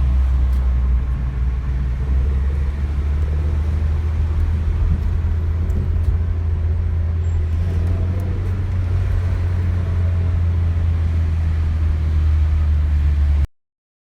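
Steady low rumble of a motor vehicle in motion, heard from inside, with no distinct events; it cuts off abruptly near the end.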